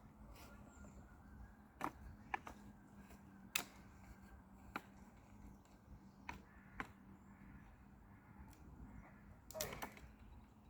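Mostly quiet, with about seven scattered sharp clicks or snaps and a faint steady hum under them.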